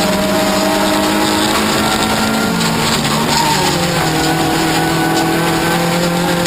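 Toyota Corolla offroad race car engine running hard and loud, with road noise underneath. Its note drops briefly as the driver comes off the throttle about two and a half seconds in, then climbs again as he accelerates.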